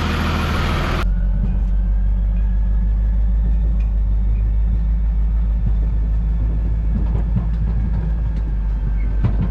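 A vehicle engine running with a steady, loud low rumble. About a second in, the higher hiss drops away abruptly and only the low rumble carries on.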